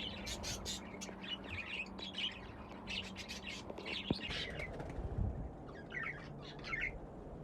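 Budgerigars chirping in rapid clusters of short, high chirps. They pause briefly past the middle, then chirp again twice.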